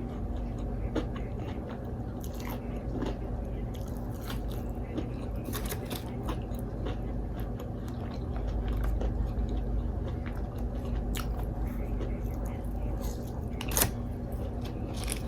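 A person chewing and biting into crunchy fried take-out food close to the microphone, with many short sharp crunches and wet mouth clicks and one louder crunch near the end. A steady low hum runs underneath.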